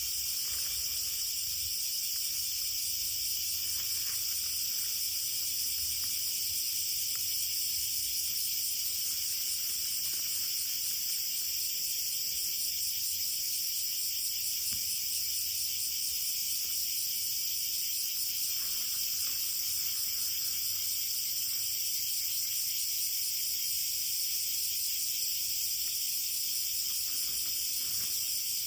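Steady high-pitched chorus of insects chirping, with a few faint clicks now and then.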